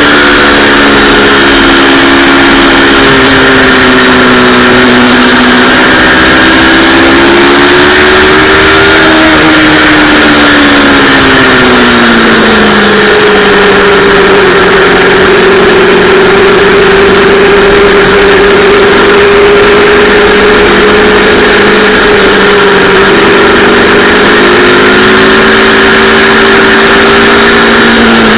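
Yamaha R3's parallel-twin engine under way on a motorcycle, its note rising and falling through the first half, dropping about ten seconds in, then holding at a steady pitch for much of the rest, over a constant loud rushing noise.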